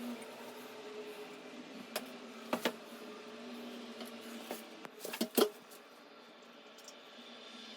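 A few sharp knocks and clicks from handling parts, about two seconds in, a double knock just after, and a louder cluster a little past five seconds, over a faint steady hum.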